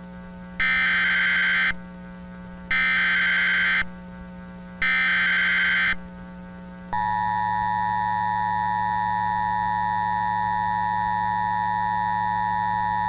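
Emergency Alert System tones: three short bursts of SAME header data, each about a second long, then, about seven seconds in, the steady two-tone EAS attention signal that announces an alert. A low steady hum lies underneath.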